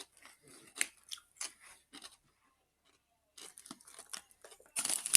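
Crunchy potato crisps being bitten and chewed close to the microphone, in short crackly crunches with a pause in the middle. Near the end a louder, denser burst of crackling.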